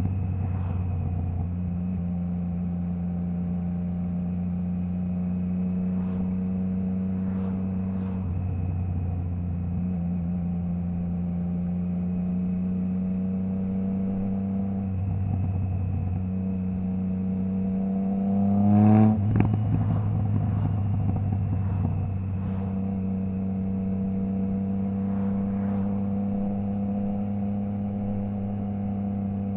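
Triumph Trident 660's 660 cc inline-triple, with a Zard stainless full exhaust and the baffle removed, running under way at a steady engine speed that steps up and down a few times. About two-thirds through, the revs climb briefly and break off with a sharp crack.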